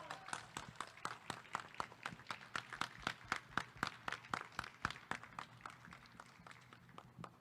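Applause from a small group of people: distinct, irregular hand claps, several a second, thinning out and fading near the end.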